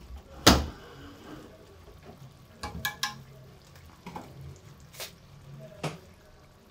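Tomato masala frying gently in ghee in an aluminium pot, under a few sharp clicks and knocks of kitchen utensils, the loudest about half a second in and a quick cluster near the middle.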